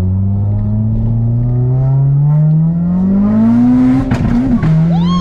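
Audi TT's built 1.8-litre turbo four-cylinder with a Garrett GTX3071R turbo, heard from inside the cabin under hard acceleration, revs climbing steadily. About four seconds in, an upshift breaks the rise with a short rapid clatter. The revs drop and start climbing again in the next gear.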